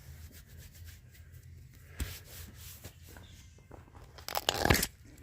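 Engine parts being handled during a teardown inspection: faint rubbing and scraping, a sharp click about two seconds in, and a louder clatter of handling near the end.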